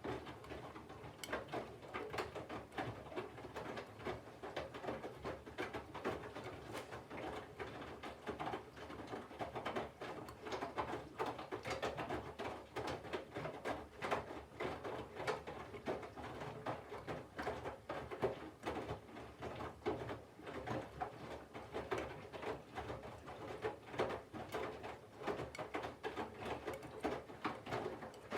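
Candy GVF4 front-loading washing machine tumbling a load of wet laundry in the cold wash phase: irregular sloshing and splashing of water with soft clicks from the drum, with no spin.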